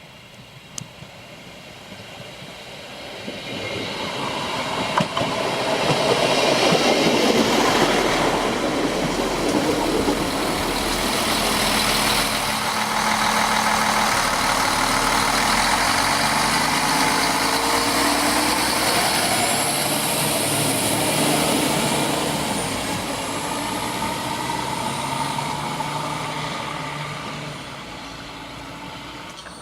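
A train passing close by on the line: its noise builds over the first few seconds, stays loud for about twenty seconds with rolling wheel noise and shifting engine tones, then fades near the end.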